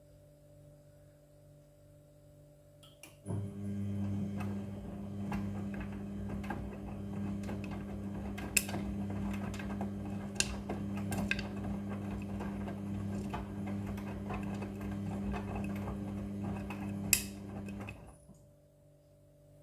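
Front-loading washing machine's drum turning through a wash tumble: a steady motor hum with scattered clicks and knocks. It starts about three seconds in and stops abruptly near the end. A faint steady hum is heard before and after.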